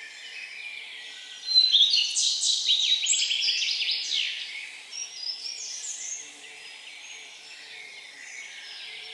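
A songbird singing a loud, fast song of rapid notes and trills for about three seconds, starting about one and a half seconds in, with fainter bird calls around it.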